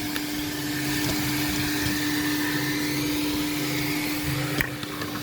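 Coin-operated car wash vacuum running with a steady motor hum and airflow. There is a sharp click near the end.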